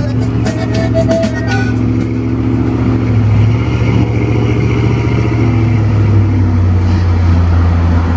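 Pickup truck engine running steadily through its new aftermarket exhaust, a deep low drone with a slight drop in pitch about six seconds in.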